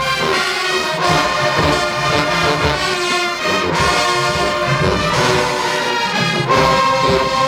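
HBCU-style marching band playing: brass horns holding loud sustained chords over a steady beat of bass drums and percussion.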